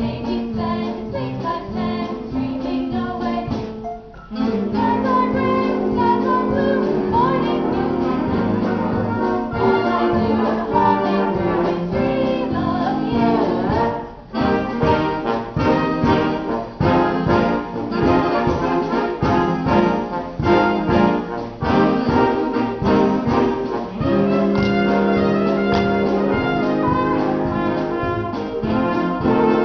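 Upbeat brass-heavy band music for a stage musical dance number, with trumpets and trombones playing held chords and sharp accents. It breaks off briefly about four seconds in and again about fourteen seconds in before picking up.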